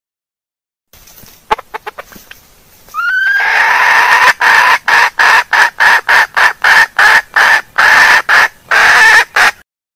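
Female junglefowl calling: a few faint clicks, then about three seconds in a rising note that breaks into a fast run of loud clucks, about three a second, stopping just before the end.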